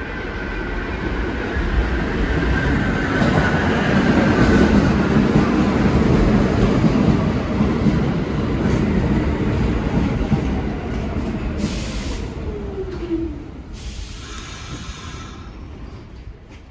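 R46 subway train pulling in: the rumble of steel wheels on the rails swells to a peak about five seconds in, then dies away. A whine slides down in pitch as the train slows, fading by about fourteen seconds in.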